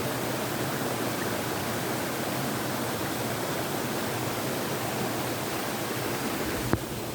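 Steady rushing noise like running water, with a short knock near the end.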